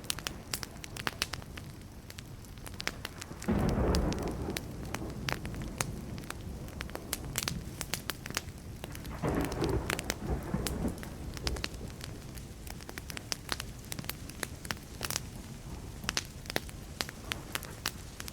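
Wood campfire crackling and popping with many sharp snaps, while distant thunder rumbles twice, once about a fifth of the way in and again just past the middle.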